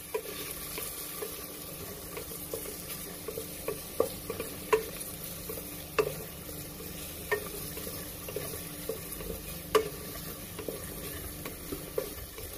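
Chopped garlic and onion sizzling in hot oil in a pan while a utensil stirs them, scraping and tapping the pan about twice a second, with several louder knocks along the way.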